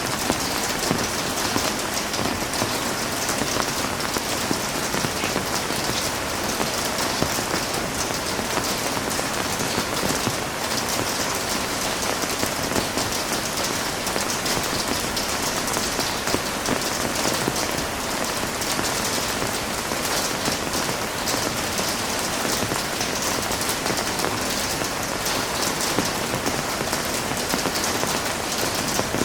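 Heavy rain falling steadily on surfaces, a dense, even hiss of countless drops.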